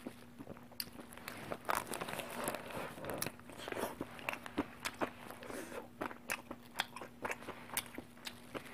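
Close-up eating sounds: a person biting into a soft hamburger and chewing, with many wet mouth clicks, over a steady low hum.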